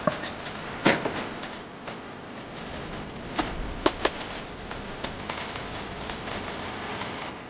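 Sucuk cooking: a steady sizzling hiss with scattered sharp pops and crackles, the loudest about a second in and around four seconds in.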